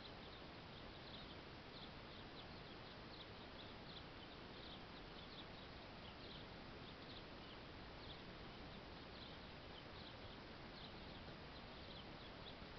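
Near silence: a faint steady hiss, with thin, high bird chirps recurring irregularly.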